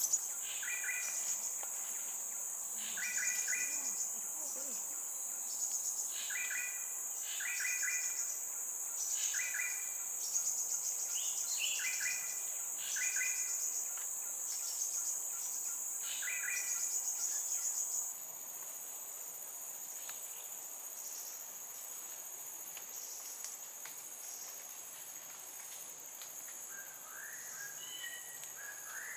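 Fledgling crimson sunbird calling: short, high notes, mostly in quick pairs, repeated every second or two at a regular pace, then falling silent about two-thirds of the way through with a few fainter calls near the end. A steady high-pitched insect drone runs underneath and drops in level at about the point the calling stops.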